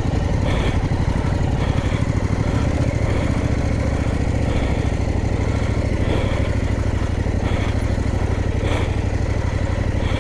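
Adventure motorcycle engine running steadily at low revs.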